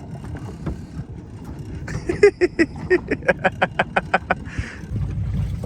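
A person laughing: a quick, even run of about a dozen short pitched pulses starting about two seconds in, ending in a breath drawn in, over a steady low rumble.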